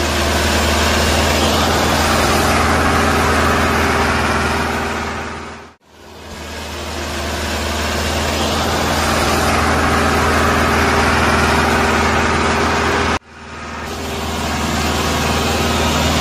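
Engine running steadily with a low hum, like an idling tractor. It cuts out abruptly twice, about six and about thirteen seconds in, and each time fades back up over a second or two.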